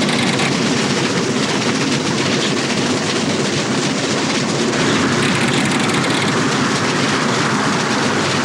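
Passenger train running along the track at speed, a steady loud rumble and rattle of wheels on the rails.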